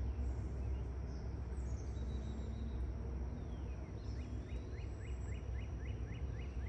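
Lakeside ambience: a steady low rumble, with a songbird singing a quick run of short falling notes, about four a second, through the second half.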